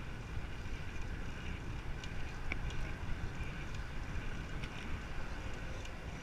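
Wind buffeting the microphone of a camera riding along on a moving bicycle, a steady low rumble with road noise beneath it. A few faint ticks come through.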